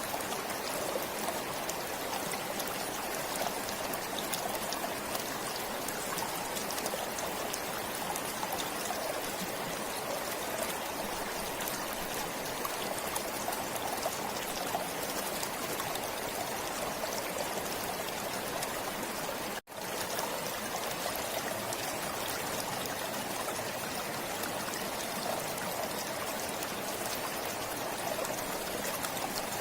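Forest stream flowing steadily, a continuous rush and trickle of water, broken by a momentary dropout about two-thirds of the way through.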